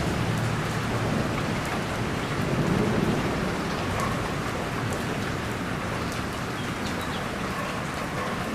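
Steady rain falling, with fine ticks of drops striking a surface. A low rumble of distant thunder swells about three seconds in.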